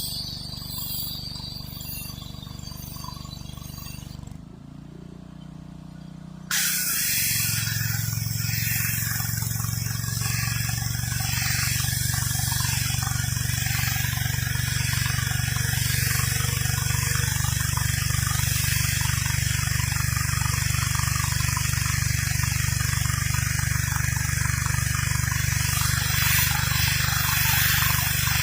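A gas pressure washer's engine running while its high-pressure water spray blasts concrete. The spray stops about four seconds in, leaving only the engine, whose pitch dips and recovers. About two seconds later the trigger is pulled again and the loud hiss of spraying water comes back suddenly and carries on steadily.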